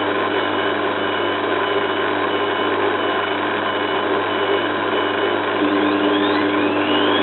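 Zanussi FLA1002W washing machine on an interim spin, the drum and motor running with a steady rushing hum. Near the end a whine rises in pitch as the drum speeds up to a higher spin speed.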